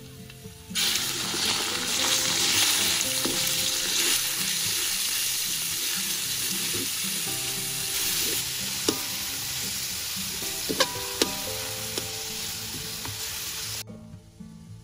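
Minced pork and garlic sizzling loudly in a hot steel wok, starting about a second in, while a metal ladle stirs and scrapes the meat with a few sharp clinks against the wok. The sizzle cuts off suddenly near the end.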